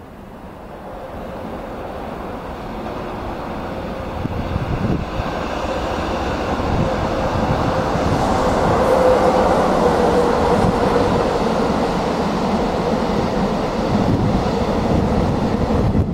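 Freight train hauled by an EF66 electric locomotive passing close by. It grows louder over the first several seconds, then holds at a steady rumble with a hum and the repeated clack of wheels over rail joints.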